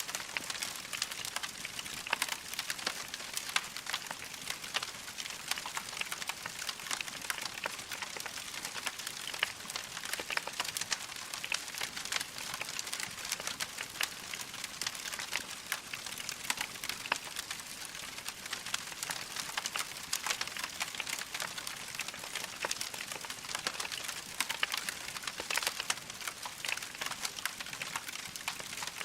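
Wood fire of burning logs crackling steadily, with a dense run of small sharp pops and snaps over a soft hiss.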